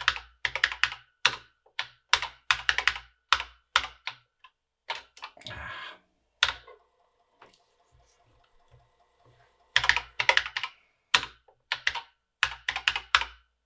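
BBC Micro keyboard being typed on in quick runs of keystrokes. In the middle there is a pause of about three seconds in which only a faint steady hum is heard.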